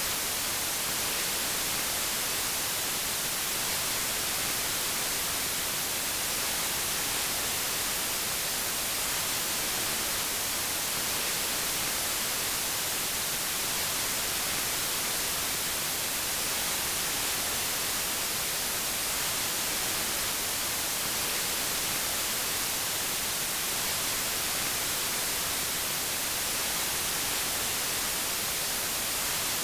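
Steady white noise: an even, unchanging hiss, bright and strongest in the high frequencies.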